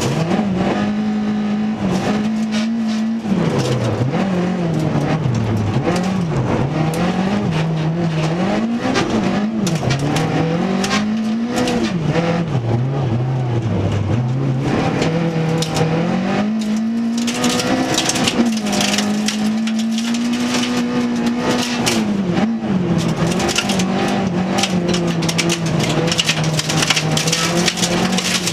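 Toyota Corolla FX-GT rally car's four-cylinder engine heard from inside the cabin, revs dropping and climbing again and again through braking and downshifts, lowest about halfway through, then rising under hard acceleration and held high. Through the second half, a dense clatter of snow and grit strikes the car's underside.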